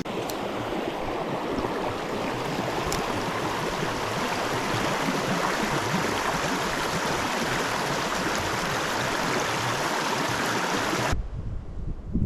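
Rushing river water, a steady even hiss that cuts off suddenly about eleven seconds in, leaving only a faint low rumble.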